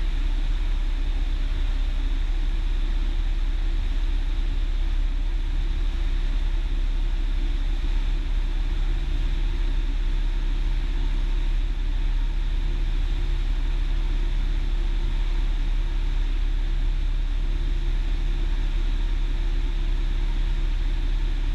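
Cessna 172's engine and propeller droning steadily inside the cabin, with a constant low hum and hiss and no change in power.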